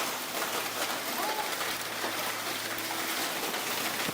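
Steady hiss of heavy rain and storm wind.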